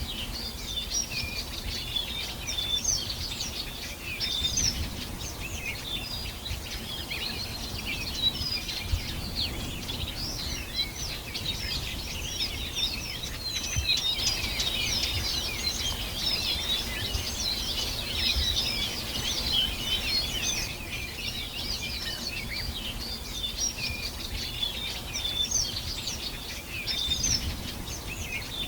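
Many songbirds chirping and trilling at once, a dense chorus of short, high calls throughout, over a low outdoor rumble.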